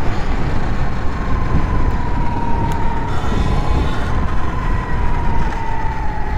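Wind and road rush buffeting a helmet-mounted microphone as a Sur Ron electric dirt bike coasts off the throttle. A thin, high whine sinks slowly in pitch as the bike slows.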